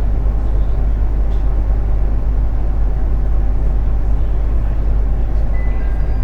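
Cabin noise inside a JR East 701 series electric train: a steady low rumble. Near the end a couple of short high tones sound.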